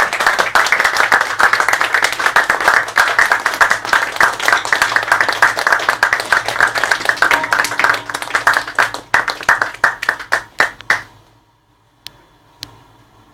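Audience applauding at the end of a performance, the clapping thinning out and dying away about eleven seconds in.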